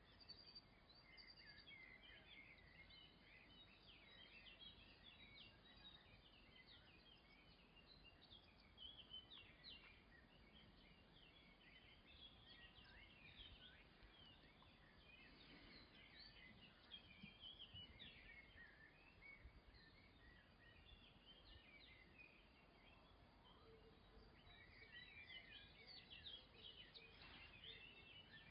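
Near silence with faint, continual bird chirping, many short calls overlapping.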